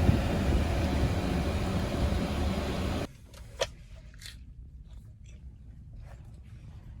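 Steady road and engine noise heard inside a moving car, cutting off suddenly about three seconds in. A much quieter background follows, with one short high chirp and a few faint clicks.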